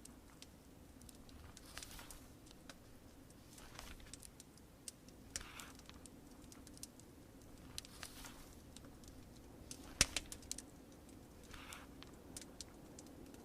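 Fireplace crackling with scattered sharp pops, the loudest about ten seconds in. Book pages are turned with soft paper swishes four times, over a steady low background of muffled rain.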